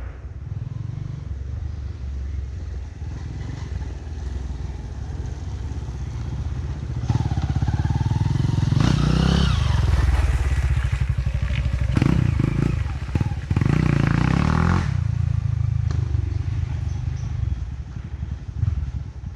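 Off-road dirt bike engines running. From about seven seconds in to about fifteen seconds one gets louder, revving with its pitch rising and falling, then it drops back to a steady lower running sound.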